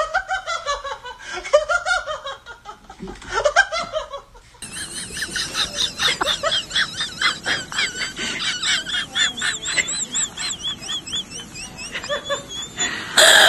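Laughter-like vocal sounds in two parts: short pitched bursts for the first few seconds, then after a sudden change a long run of rapid, quavering high-pitched sounds.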